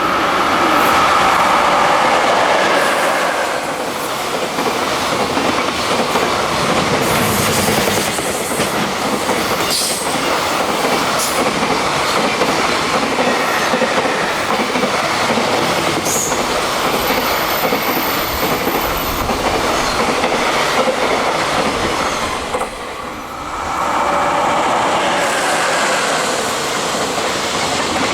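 Freight train passing at speed, its wheels clattering steadily over the rail joints with some wheel squeal. The noise dips briefly about 23 seconds in, then picks up again.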